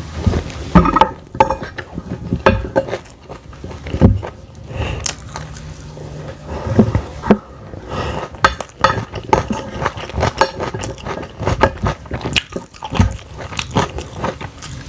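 Close-miked eating: chewing and biting of fried egg and vegetables, with cutlery clinking and scraping on a plate. The sound is a string of irregular short clicks and soft thumps.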